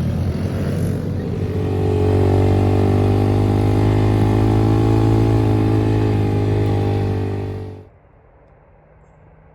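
Engine running at steady revs, growing louder and steadier about two seconds in, then cutting off abruptly near the end to faint background hiss.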